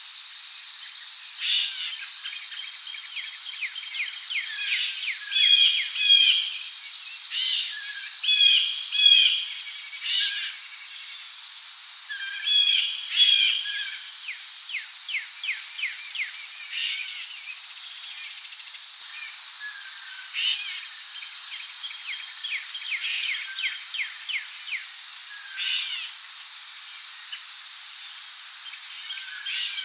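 Rainforest ambience: a steady high-pitched insect drone, with birds calling over it in short, repeated chirping phrases.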